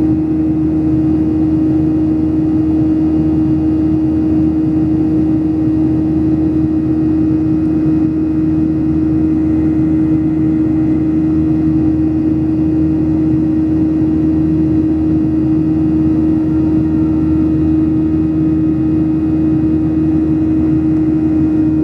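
Boeing 737-800's CFM56-7B jet engines heard inside the passenger cabin: a loud, steady drone with a strong constant hum that holds unchanged throughout.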